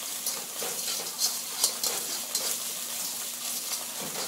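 Thai red curry paste frying in hot oil in a wok, a steady sizzle, stirred so that scattered scrapes and taps sound against the wok.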